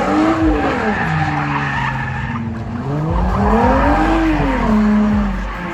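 A car's engine revving hard in two long swells, rising and falling, with its tyres squealing and skidding on the pavement.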